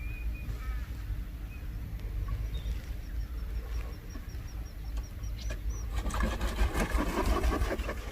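Wild birds calling over a low steady rumble, with a run of short high chirps about four a second in the middle. In the last two seconds comes a louder patch of splashing and knocking from a canoe paddle working the water.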